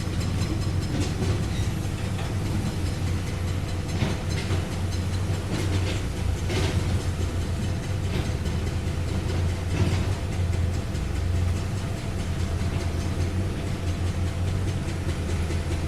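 Heavy diesel engine of a tracked earthmover running steadily, with scattered metallic clanks and knocks from its steel tracks or working gear.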